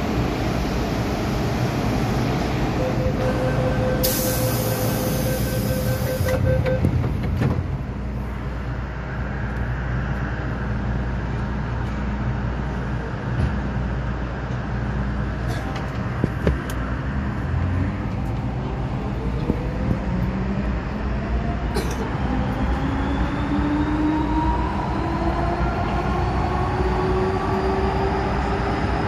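MTR M-Train electric multiple unit heard from inside the car: a door-closing warning beep sounds for a few seconds near the start, then the train pulls away. Its traction motor whine rises steadily in pitch as it accelerates, over a constant rumble of wheels on rail.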